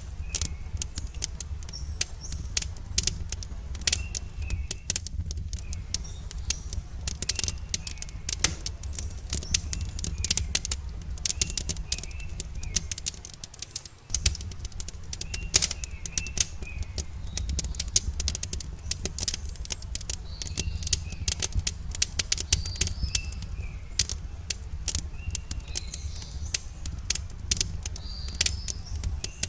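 Wood campfire crackling with frequent sharp pops over a steady low rumble, while small birds chirp in short phrases throughout. The rumble dips briefly about halfway through.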